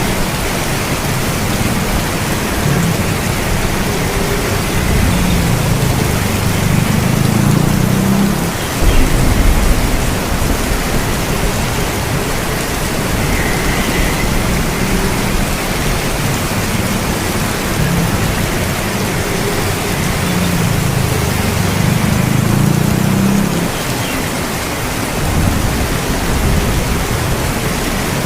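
Steady heavy rain, with two low rolling thunder rumbles of a few seconds each, about a quarter of the way in and again past the middle.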